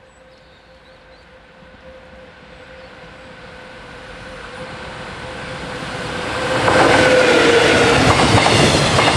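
An EF81 electric locomotive hauling a container freight train approaches and passes close by. It starts as a steady whine that grows louder over about seven seconds and drops slightly in pitch as the locomotive goes past, then gives way to the loud clattering of the container wagons' wheels on the rails.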